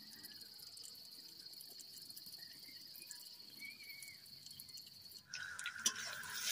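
A steady high-pitched insect trill, cricket-like, at a low level. About five seconds in it gives way to louder sizzling of sliced onions and garlic frying in hot oil in a kadai, with a metal spatula knocking on the pan as the stirring begins.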